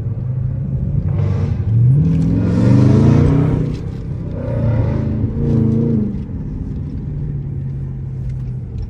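Mopar car engine running with a steady low rumble, revving up twice, about two seconds in and again about four and a half seconds in.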